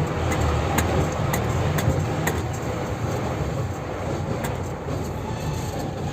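Heavy dump truck's diesel engine running low and steady, with sharp clanks about every half second in the first couple of seconds and once more later; it grows a little fainter toward the end.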